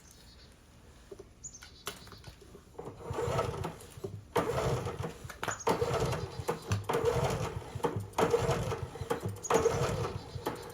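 Honda EU3000is generator being pull-started cold with the choke on: several yanks of the recoil starter, each a second-long rattling whir of the engine turning over, without the engine catching.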